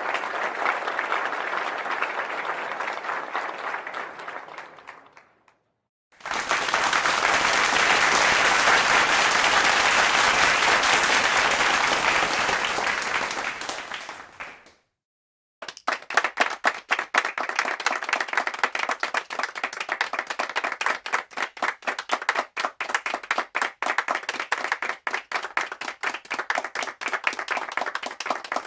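Three applause clips in a row, each separated by a brief silence. First, crowd applause fades out about five seconds in. Next, a louder, denser crowd applause swells and fades. Last, a smaller group claps, with individual claps easy to pick out.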